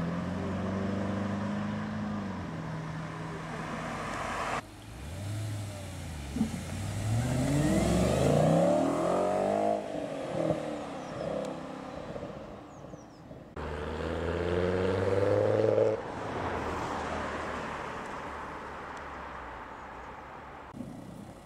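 Audi performance cars accelerating away one after another, their engine notes climbing in repeated rising sweeps as they pull through the gears.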